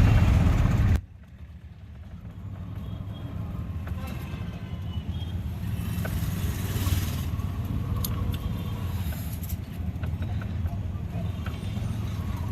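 Steady low rumble of a road vehicle running, after a louder sound cuts off abruptly about a second in.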